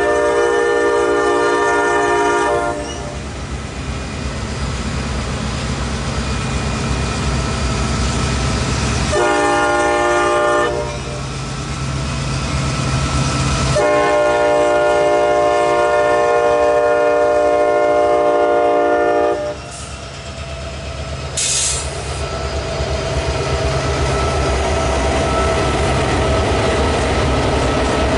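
Freight diesel locomotive sounding its multi-chime air horn: a long blast, a short one, then a long one, over the steady rumble of the idling-to-working diesel engines. A brief hiss comes about 21 seconds in, and near the end a steady higher-pitched tone builds, likely wheel or flange squeal as the cars move.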